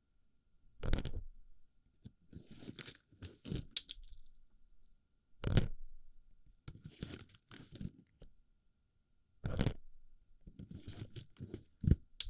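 Plastic BB pellets handled in and against a binaural microphone's ear: crunchy rattling and rustling in about six separate bursts, with short quiet gaps between them.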